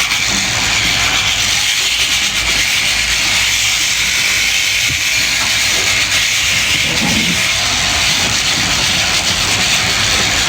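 Electric sheep shears running steadily through the fleece, a continuous high hiss.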